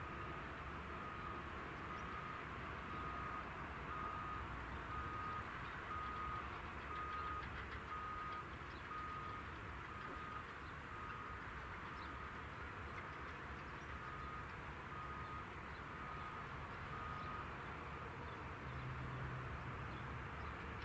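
A high electronic beep repeating about once a second, over faint low background rumble; the beeping stops a few seconds before the end.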